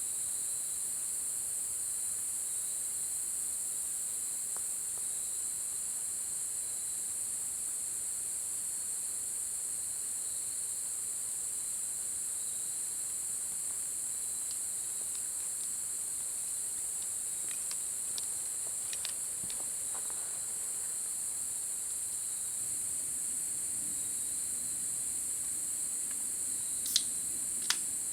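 Steady high-pitched chorus of crickets and other insects, with a thin constant trill in it, unbroken throughout. A few faint ticks come in the second half, and two sharp clicks near the end.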